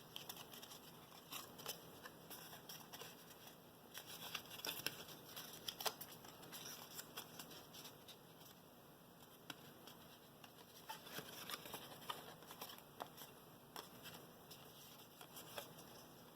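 Faint rustling and scattered light clicks of a paper card being bent back and forth along its score lines to loosen the folds.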